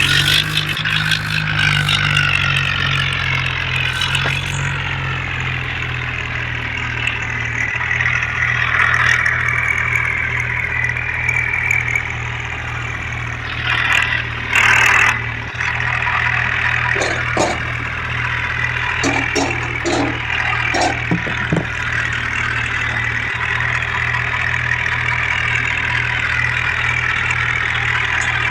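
Tractor engine running steadily, with a few short knocks and clatters around the middle.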